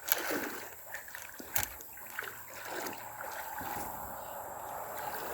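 Two sharp knocks about a second and a half apart, over the steady rush of river water.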